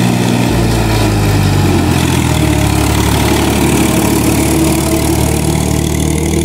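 Tractor diesel engine running steadily at a low, even pace.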